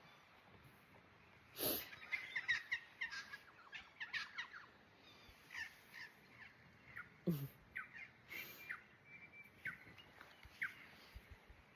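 Birds calling outdoors: scattered short, quick chirps and calls, with two louder sounds about two seconds in and again about seven seconds in.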